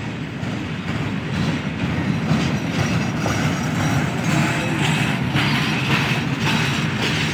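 Freight train of flat wagons rolling past: a steady rumble of wheels on the rails, with repeated clacks of the wheels over the rail joints.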